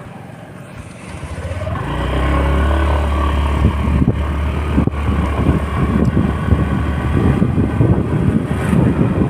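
A motor vehicle's engine pulling away and gathering speed over the first two seconds, then running steadily, with wind buffeting the microphone.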